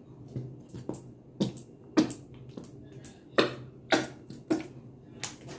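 Food-topping handling noises: a string of short, sharp clicks and crackles, roughly one every half second to second, as sauce is put onto a plate of loaded nachos.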